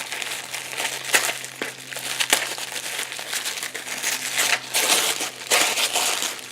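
Packaging crinkling and rustling in the hands as craft supplies are unwrapped, an irregular run of crackles, some sharper than others.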